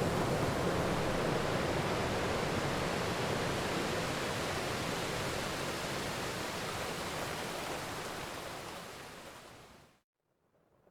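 Steady rain, an even hiss of falling water. It fades out over the last few seconds and cuts to near silence near the end.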